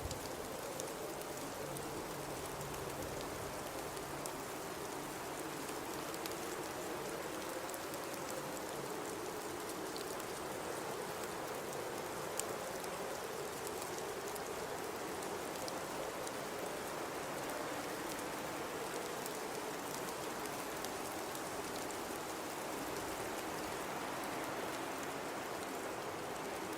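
Blizzard wind blowing steadily, with a wavering moaning tone that rises and falls slowly over a constant rushing hiss. Faint scattered ticks throughout, one a little louder about twelve seconds in.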